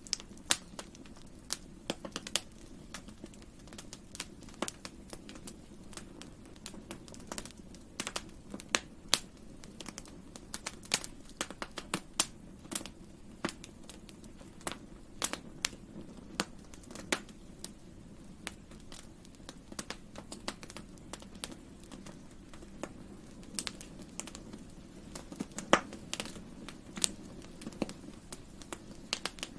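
Wood campfire burning: irregular sharp crackles and pops, several a second and varying in loudness, over the low steady sound of the flames.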